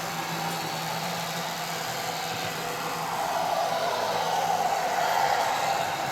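Model train running on the layout track: a steady whir of its small electric motor and wheels on the rails, growing louder about three seconds in and easing off near the end.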